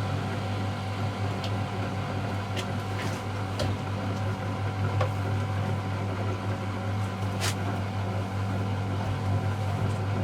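Miele Novotronic W715 washing machine running with a steady low motor hum. A few brief light clicks sound over it.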